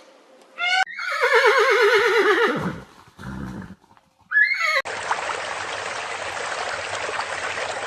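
Horse whinnying: one long quavering whinny that falls in pitch, then a short low sound and another brief call. After that comes a steady hiss like rushing water.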